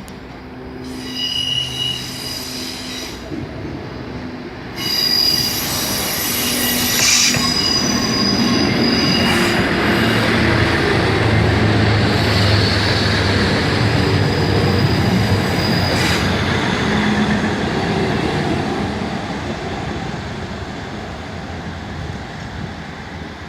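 Class 159 diesel multiple unit at a station platform: high-pitched wheel and brake squeals come twice in the first ten seconds, then its diesel engines grow louder for several seconds before slowly fading.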